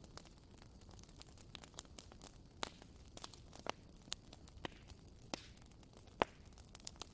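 Bonfire crackling: irregular sharp pops and snaps of burning wood over a faint hiss, with the loudest pop about six seconds in.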